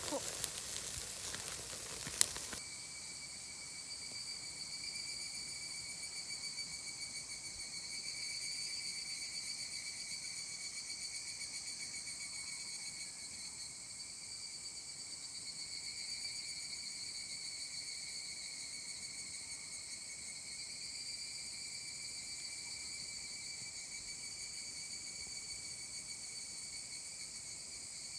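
Yakitori sizzling over a charcoal grill for the first two or so seconds, with one sharp click just before it stops. Then a steady chorus of crickets chirring, a few even high tones with a fine rapid pulse.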